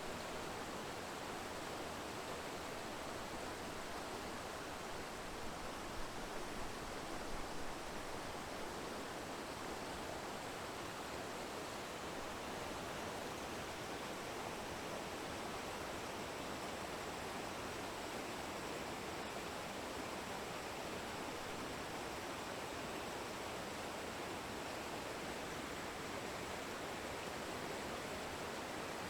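Steady, even rushing noise with no pitch, unchanging throughout.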